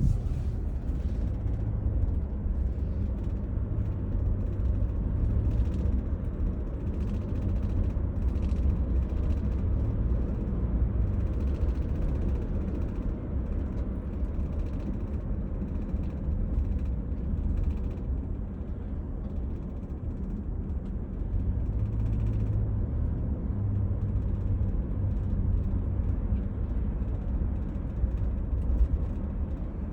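Inside the cabin of a moving 2023 Toyota Sienna minivan: a steady low road rumble, with light, irregular rattling from the second-row seat.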